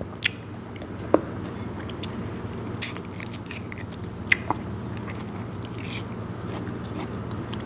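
Close-miked eating sounds: biting and chewing crisp, sour star gooseberry (mayom) salad, with a string of sharp wet clicks and crunchy snaps between quieter chewing.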